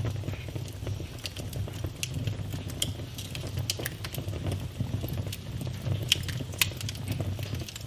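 Wood fire in a fireplace burning with a steady low rumble and scattered sharp crackles and pops, two of them louder about three quarters of the way through.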